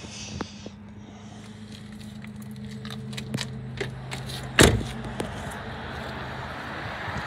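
2007 Volkswagen Polo's engine idling steadily. A car door slams once about four and a half seconds in, with light clicks and rattles around it.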